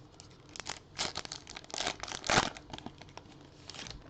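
Crinkling and tearing of a foil trading-card pack wrapper being opened and crumpled, in a run of irregular sharp crackles.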